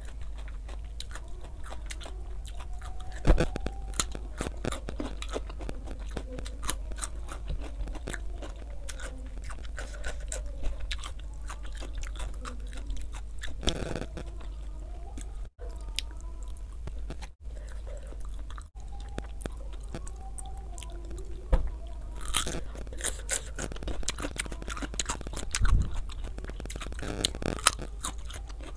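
A person chewing and crunching food close to the microphone, with many small wet clicks and sharper crunchy bites now and then. The loudest crunches come in the second half, as raw cucumber is bitten.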